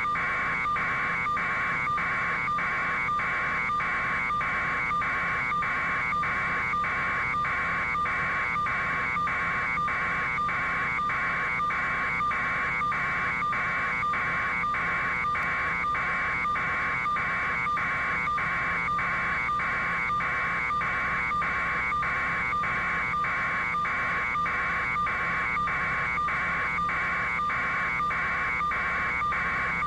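An electronic alarm sounding steadily, a buzzing tone pulsing a little over twice a second without letting up.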